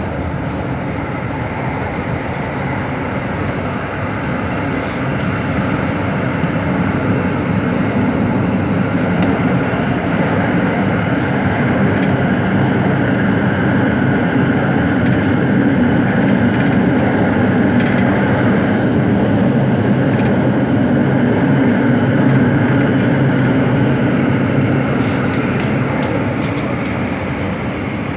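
AS-14 metro train running between stations, heard from inside the car: a steady rumble and hum of wheels on rail and traction motors. It grows a little louder through the middle and eases near the end.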